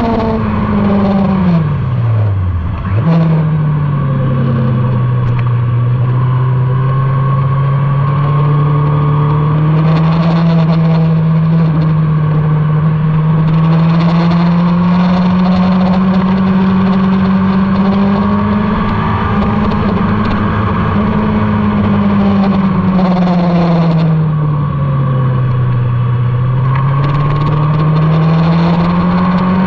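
Motorcycle engine being ridden hard on a race track. The pitch drops sharply near the start, jumps back up about three seconds in, and then climbs slowly through a long stretch. It dips again about three-quarters of the way through and rises once more.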